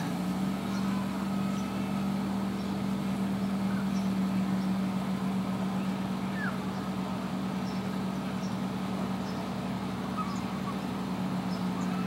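A motor hums steadily at one low pitch, with a few faint, short bird chirps over it.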